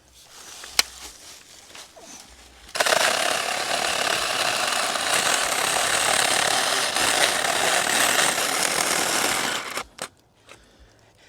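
Saker mini 4-inch cordless electric chainsaw cutting into a red pine knot. It starts about three seconds in with a rattling, chattering cut, runs for about seven seconds, then stops abruptly. The user puts its behaviour down to cutting too deep into the sapwood. A single sharp click comes first.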